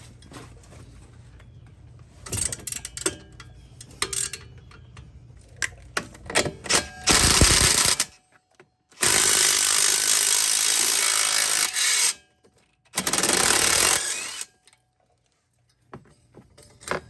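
Metal tools clinking and knocking on the sway bar link hardware, then a power tool run in three loud bursts, the longest about three seconds. It is working off the seized, broken stabilizer link's bolt, which a Torx bit could not turn.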